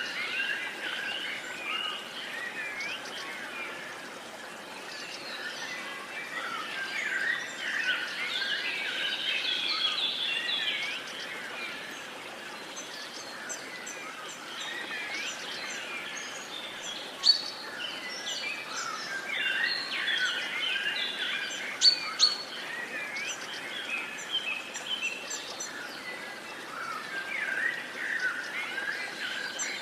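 Many wild birds singing and chirping together in a busy chorus over a steady background hiss, with a few louder sharp chirps in the middle.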